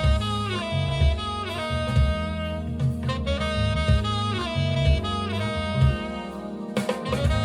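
Recorded instrumental music played back over hi-fi tower loudspeakers in a room: a saxophone lead whose phrases slide down in pitch, over a bass line and drum kit.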